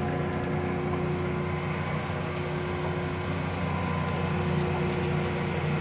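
LeBlond Regal engine lathe running in low spindle range at about 35 RPM: its 5 hp three-phase motor and headstock gearing give a steady hum with a few constant tones.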